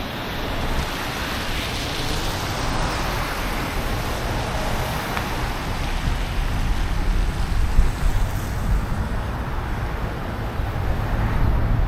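City street traffic: a steady rumble of passing vehicles with a wash of road noise.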